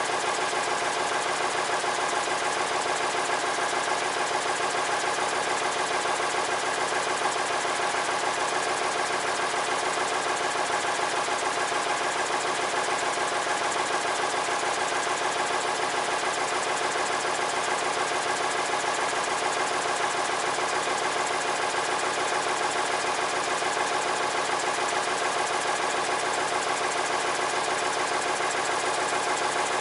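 An engine running steadily at one constant speed, with no change in pitch or load.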